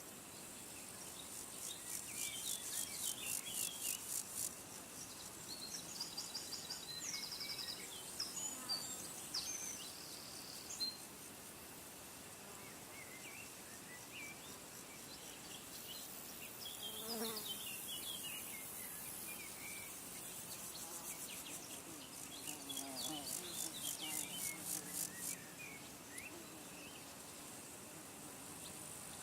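Outdoor nature ambience: a very high, rapidly pulsing insect trill comes in twice for a few seconds each, with scattered short bird chirps over a steady hiss.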